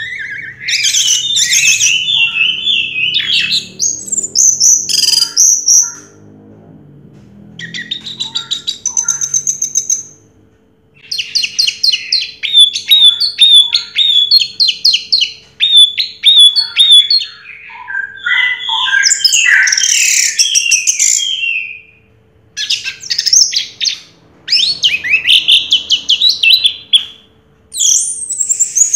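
Orange-headed thrush singing a long, varied song of rapid whistled and chattering phrases, broken by several short pauses.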